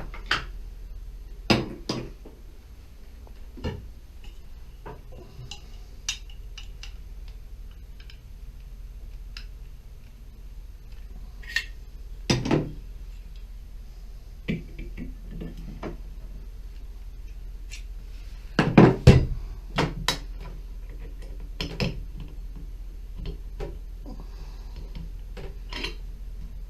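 Scattered metal clinks and knocks of hand tools against shower valve parts, coming at irregular intervals, with the loudest cluster about two-thirds of the way through, over a low steady hum.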